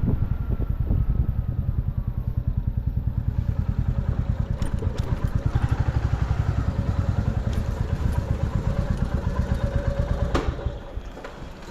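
Motorcycle engine running under way, a rapid, even low throb of its exhaust pulses with a few light clicks over it; about ten seconds in it drops away and quietens.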